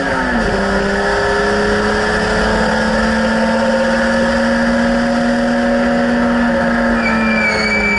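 BMW E30 race car's engine heard from inside the cabin under hard acceleration: the revs drop sharply just after the start with an upshift, then the pitch climbs slowly down the straight. Near the end the revs fall again and a high, steady squeal comes in.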